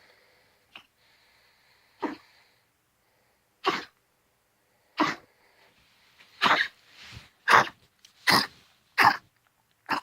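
Pomeranian coughing: a series of short coughs, about a second and a half apart at first and coming faster in the second half. It is a persistent cough of unknown cause; vets have ruled out heart disease, pneumonia and a collapsed trachea.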